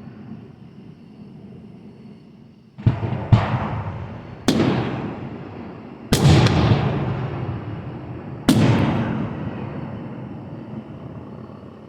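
Fireworks bursting: five sharp booms starting about three seconds in, the first two close together and the rest one and a half to two and a half seconds apart, each trailing off in a long rumbling echo.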